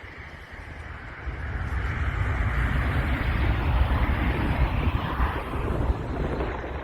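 Airbus A320-214's CFM56 jet engines in a loud, rushing roar over a deep rumble, swelling sharply about a second in during the landing.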